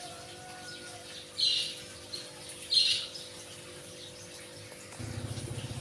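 A caged songbird gives two short, high chirps about a second apart, over a faint steady hum. Near the end a small engine starts up close by with a low, rapid pulsing.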